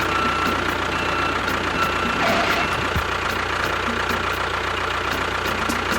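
Small motor running steadily: an even mechanical hum with a thin high whine.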